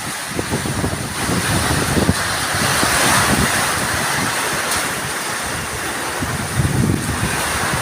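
Rainstorm with heavy rain and strong gusting wind. The gusts rumble on the microphone, and the rush swells about three seconds in.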